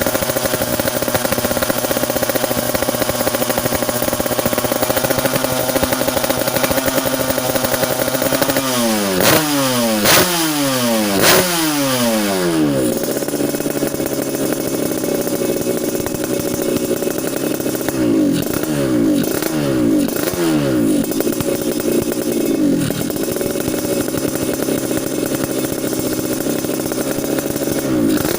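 Motorcycle engine through an aftermarket GRM exhaust, idling steadily and revved in quick blips, each falling back to idle: three or four blips about a third of the way in, and another run of about five past the middle.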